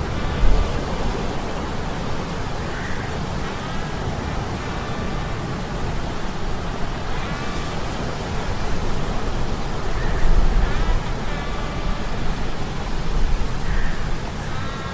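Sea storm ambience layered with humming metal gears: a steady deep rumble and hiss of wind and surf under a mechanical hum. Short high-pitched tones come and go every couple of seconds, and there are a few louder swells.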